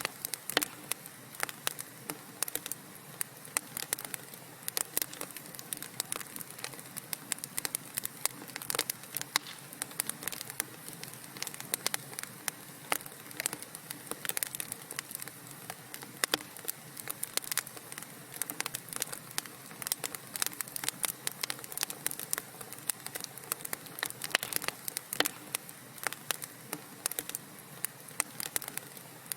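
Wood fire crackling in a fireplace: a steady low hiss with many sharp, irregular pops and snaps, several a second.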